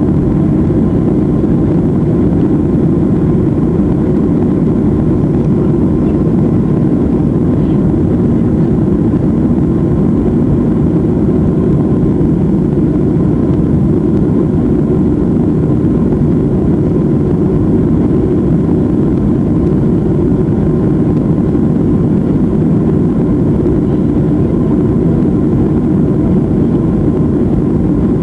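Boeing 737 jet airliner during takeoff: the engines and rushing air make a loud, steady low noise with a faint steady hum above it, with no change through the stretch.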